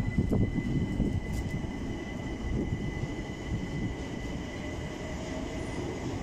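Electric multiple-unit train moving through the station: a steady low rumble with a thin, steady high whine over it, and a few knocks in the first half second.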